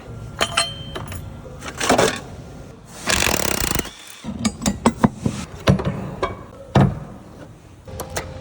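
Hand tools clanking and knocking on metal parts during a car teardown, in a quick run of sharp clicks and knocks, with a hissing burst of about a second around three seconds in. Background music plays underneath.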